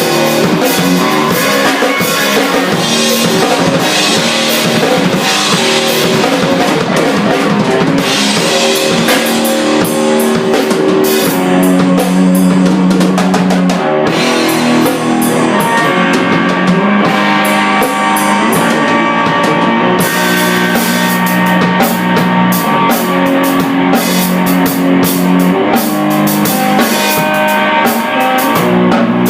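Improvised rock jam on drum kit and guitar: steady, busy drumming with many cymbal strokes under the guitar, which holds long notes through the second half.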